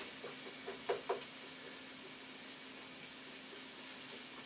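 Onions frying in oil in a frying pan, with a steady sizzle. In the first second or so there are a few light clicks of the turner against the pan as they are stirred.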